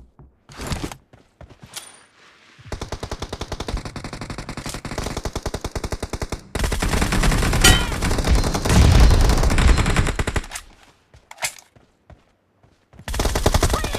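Automatic gunfire in a shooter video game. A long burst of rapid shots starts about three seconds in, grows louder and denser midway, and breaks off, followed by a short burst and another near the end.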